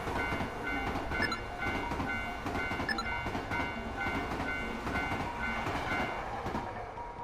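Train passing a railway level crossing, its cars rumbling and rattling, while the crossing alarm rings a steady, evenly repeating two-tone ding. The train noise fades near the end.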